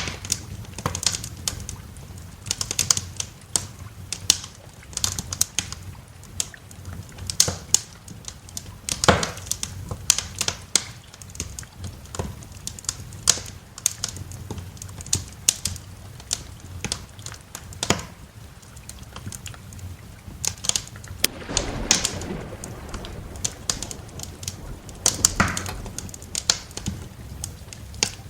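Wood fire in a fireplace crackling, with irregular sharp pops and snaps over a steady low background. A short low rumble swells up about three quarters of the way through.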